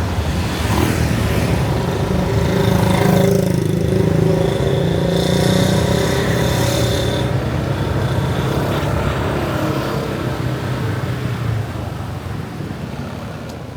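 Motorbike engine running steadily while riding on a road, with traffic noise around it; the engine sound eases off and gets quieter near the end.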